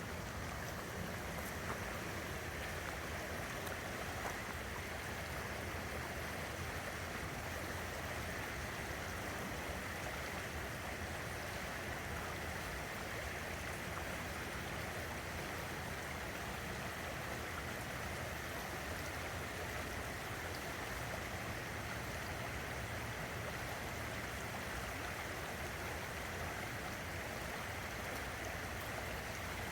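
River water running steadily, an even rushing sound without breaks or distinct events.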